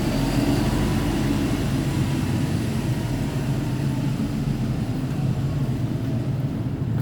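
Isuzu Erga city bus's four-cylinder diesel engine running steadily, a low, even hum.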